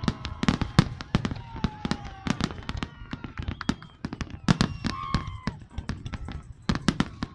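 Fireworks display: a dense, irregular barrage of sharp bangs and crackles, several a second without a break.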